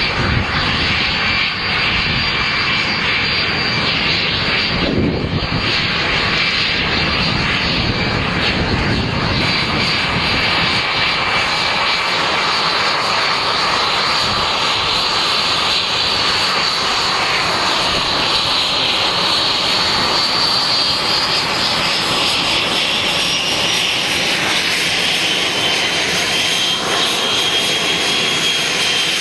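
F-86 Sabre's turbojet engine running on the ground: a loud, steady roar with a high-pitched whine that rises slightly in pitch about two thirds of the way through.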